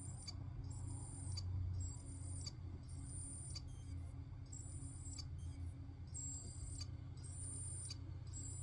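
Failing hard disk drive that won't initialize, repeating a high-pitched chirping pattern about once a second, with sharp clicks between the chirps, over the low hum of the spinning drive.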